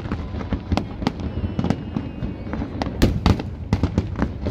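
Aerial fireworks going off in quick irregular volleys, sharp cracks and bangs over a continuous low rumble of shells bursting, with a brief faint whistle about a second and a half in.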